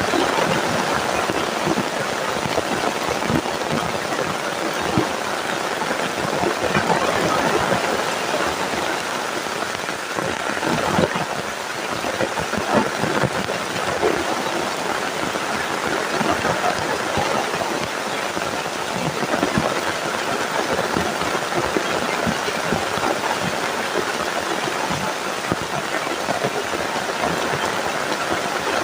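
Heavy rain falling steadily, with a dense patter of drops hitting surfaces.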